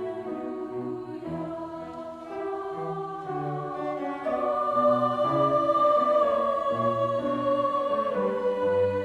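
Choir singing in parts, with lower voices changing note about once a second. About four seconds in it grows louder, and the upper voices hold a long high note.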